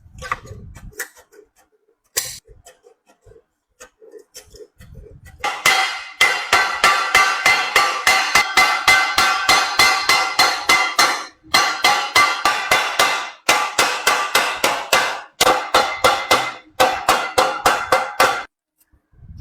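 Rapid hammer blows on a ringing sheet-metal pot, about six a second, in long runs broken by short pauses. The hammering starts about five seconds in, after a few scattered lighter knocks.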